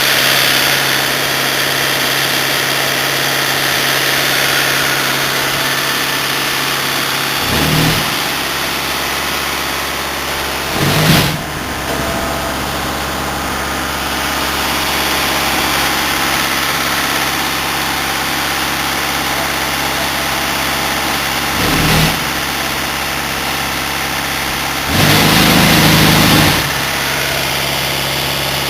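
Cement tanker truck's diesel engine running steadily, broken by four short louder bursts, the last lasting about a second and a half.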